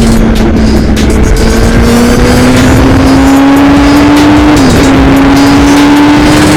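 BMW S1000RR inline-four running under load through an Austin Racing de-cat titanium exhaust, its pitch climbing slowly as it pulls, with a quick dip about two-thirds of the way through, over heavy wind rush. The exhaust is really loud.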